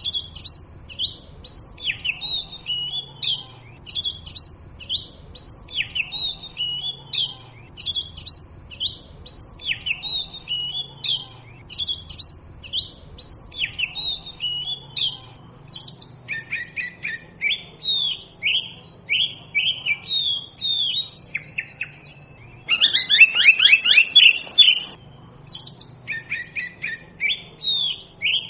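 Oriental magpie robin singing: a varied, continuous series of short whistled phrases that slide up and down in pitch, with a louder, faster run of notes about two-thirds of the way through.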